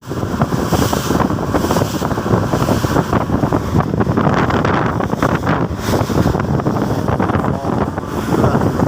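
Strong storm wind buffeting the microphone, a loud, continuous rumbling noise full of irregular crackling gusts.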